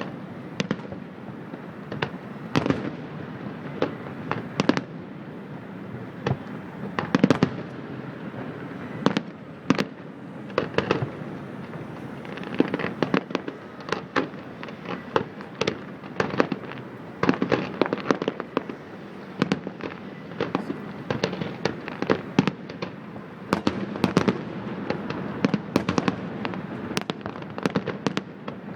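Fireworks display: shells bursting in a steady, irregular barrage of sharp bangs, several a second at times, over a continuous rumble and crackle.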